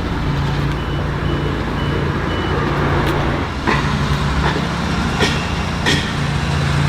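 Steady low hum under a noisy background, with a few brief sharp clicks about halfway through and near the end.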